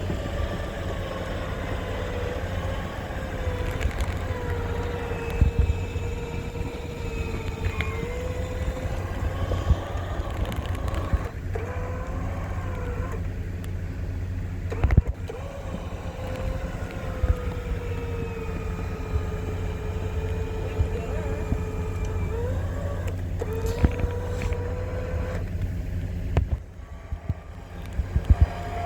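Electric Jeep winch whining under load while it drags a stuck truck through snow, over the low rumble of an idling engine. The whine sags and recovers in pitch as the load changes, stops a few times for a moment, with a few sharp knocks, and cuts out for about a second near the end.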